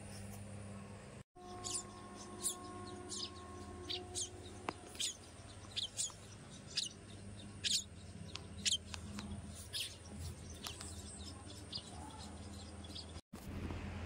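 Birds chirping: short, high, downward chirps, about one or two a second, over a low steady hum.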